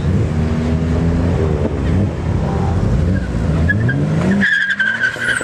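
A car's engine revving hard, its pitch climbing through the gears, then the tires breaking loose and squealing near the end.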